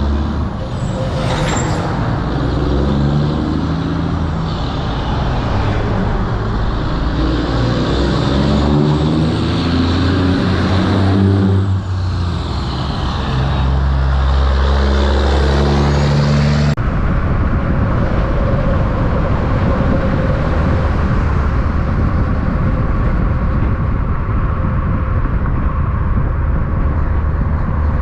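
Diesel semi-truck engine running loud and close, its pitch changing in steps as it shifts gears. About two-thirds of the way through it cuts off abruptly into steady truck and traffic noise.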